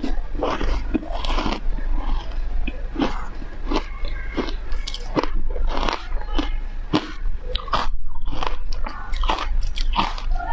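Close-miked biting and chewing of crunchy foam ice: a quick, irregular run of sharp crunches, several each second.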